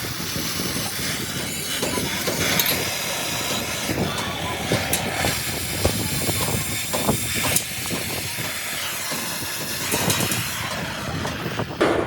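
Workshop noise from sheet-metal fabrication: a steady hiss with scattered sharp knocks throughout.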